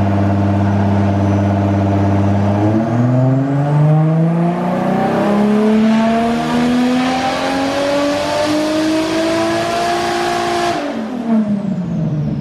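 Big single-turbo Toyota 2JZ straight-six in an R34 Skyline making a full-throttle dyno pull. It holds a steady low-rev note for a few seconds, climbs smoothly through the rev range with a rising turbo whistle, then lets off sharply about 11 seconds in as the revs fall away.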